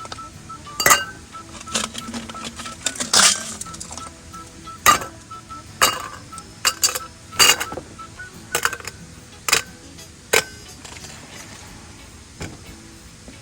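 Camp cookware and utensils being handled: irregular sharp clinks and knocks, most of them in the first ten seconds.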